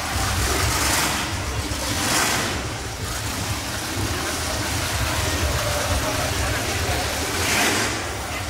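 Car engine running with a steady low rumble, with rushing swells of noise about a second in, two seconds in and near the end, and faint voices.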